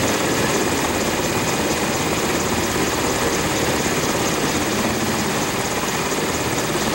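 Helicopter running nearby, its rotor and engine giving a steady, even noise.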